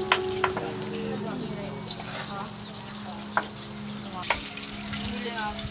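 Banana slices deep-frying in hot oil in a wok, sizzling steadily, with a metal spatula scraping and tapping against the pan a few times as they are stirred.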